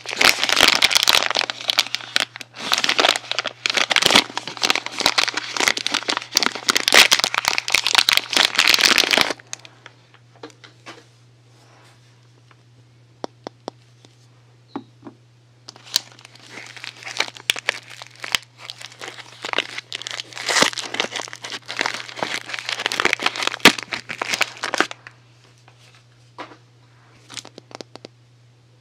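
Crinkling and rustling of soap wrapping being handled and opened by hand, in two long stretches with a near-quiet pause of a few seconds and a few small clicks between them.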